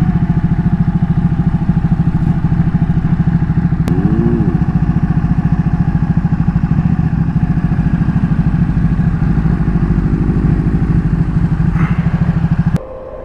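Ducati 1199 S's Superquadro L-twin engine running at a steady, even pulse. It cuts off abruptly near the end, leaving a faint steady hum.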